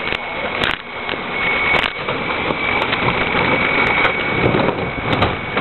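Rear-loader garbage truck running, with a steady high-pitched whine and a few sharp knocks over the engine noise.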